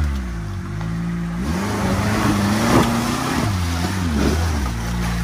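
An off-road car's engine revving under load. Its pitch climbs about a second and a half in and holds, drops and rises again a couple of times, then holds steady near the end.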